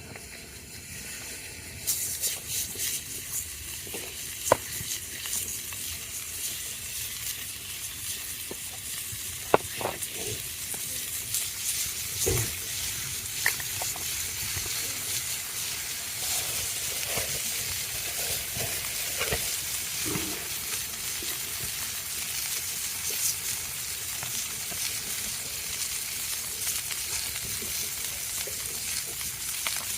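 Food sizzling and spitting in a hot pan. The sizzle starts suddenly about two seconds in and carries on steadily, with a few sharp clicks and knocks of utensils on the pan.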